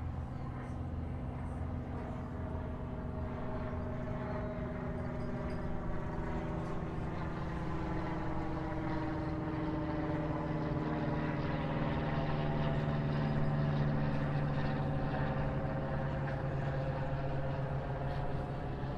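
Steady engine drone of a passing powered craft, a low rumble with a humming pitch that slowly shifts as it goes by. It grows gradually louder, peaking about three quarters of the way through.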